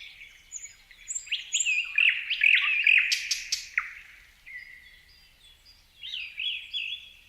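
Songbirds chirping: a dense flurry of short, quick chirps and sweeping notes between about one and four seconds in, thinning out, then another flurry near the end.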